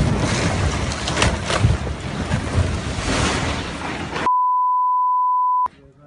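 Loud rushing, rumbling noise with a few sharp cracks, typical of a rockfall coming down. About four seconds in it gives way to a steady one-note censor bleep that lasts just over a second and cuts off sharply, leaving only faint scattered sounds.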